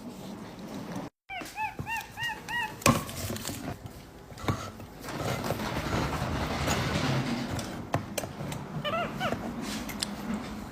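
Pet monkey chirping: a quick run of about six short, rising-and-falling chirps about two seconds in, and a few more near the end. Kitchen handling noise fills the middle.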